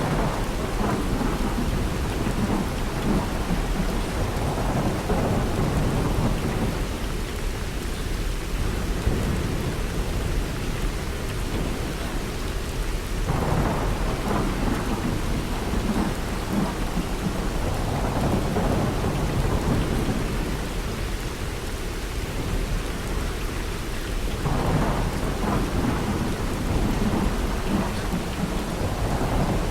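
Heavy monsoon rain falling steadily, with low rolling rumbles of thunder that swell up a few times.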